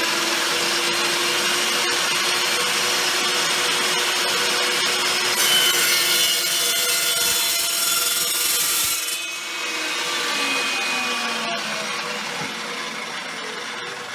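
Evolution EVO380 cold saw running and cutting through thin steel angle iron. The cutting noise is harshest and loudest in the middle, then the blade winds down with a falling whine after the cut.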